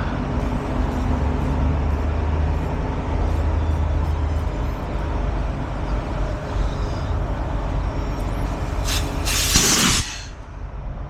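Truck engine idling, then about nine seconds in a loud hiss of compressed air being let out, lasting about a second and cutting off suddenly.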